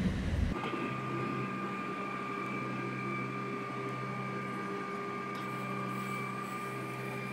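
Wind buffeting the microphone for a moment, then, about half a second in, the inside of a moving electric suburban train: a steady hum with several fixed, unchanging tones.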